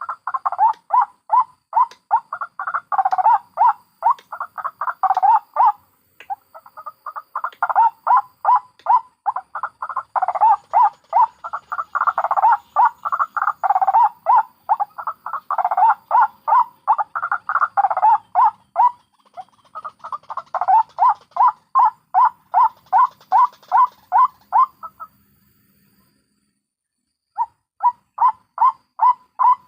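White-breasted waterhens giving their rapid, repeated croaking 'kruak' calls, about three to four notes a second. In places several birds overlap into a dense chorus. The calling stops for about two seconds near the end, then starts again. This is the ngekek call used to lure the birds.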